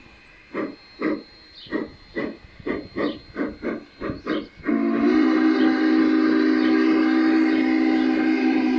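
Onboard sound system of a G-scale model steam locomotive: exhaust chuffs that quicken steadily, then about halfway through a long steady steam whistle blast sounding as a chord.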